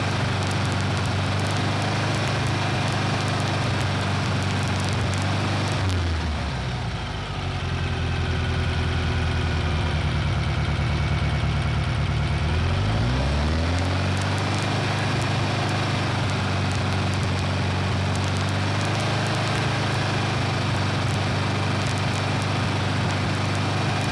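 Air-cooled VW flat-four engine, a 2276 cc Beetle build, held at raised revs of about 3000 rpm for a timing-light check. About six seconds in the revs drop to idle. About seven seconds later it is revved back up and held steady.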